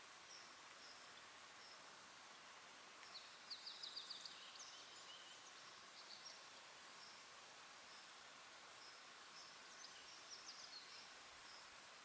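Faint outdoor hush with small birds chirping in the distance: short high notes repeating every half second or so, with a quick run of sharp notes about three seconds in and again near the end.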